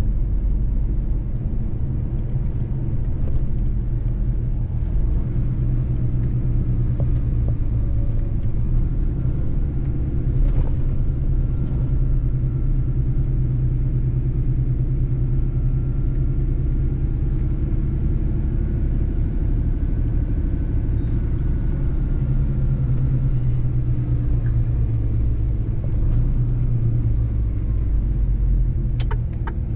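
Mercedes-Benz truck driving along the road, its engine and rolling noise making a steady low rumble, with a quick run of even ticks near the end.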